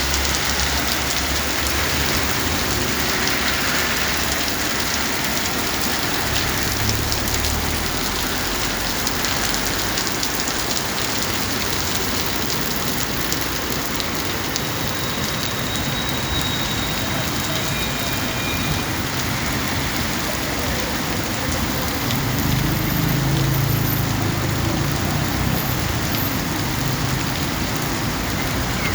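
Steady rain falling, a dense even hiss throughout; a low rumble swells for a few seconds about three quarters of the way through.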